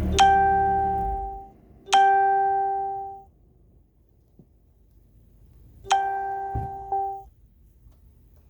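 An Audi A6's engine idle stops about a second in. The car's warning chime sounds as single gongs, three separate strikes and then a quick second one just after the third, each ringing out and fading. A low thud comes between the last two gongs.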